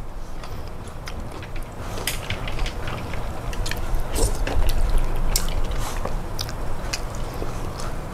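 Close-up eating sounds: chewing and biting, with many sharp clicks and smacks.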